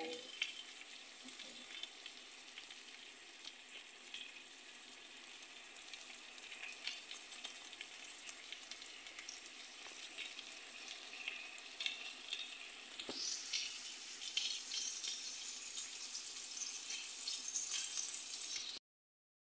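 Chicken and mushrooms frying in a pan for curry: a steady sizzle with fine crackling spatter. It grows clearly louder about two-thirds of the way through, then cuts off suddenly near the end.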